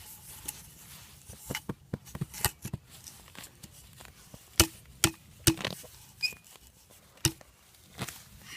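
Irregular sharp chopping knocks: a run of lighter taps, then four louder blows, each with a short low ring.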